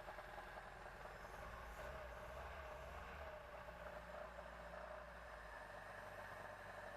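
VAZ 2104 four-cylinder engine idling with a rapid, light, regular ticking. The knock comes from a loose crankshaft ratchet (pulley) nut and closely resembles a piston-pin or connecting-rod knock.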